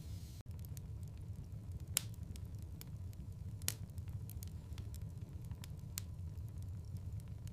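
Wood fire in a fireplace crackling: scattered sharp pops over a steady low rumble, with two louder pops about two seconds and three and a half seconds in.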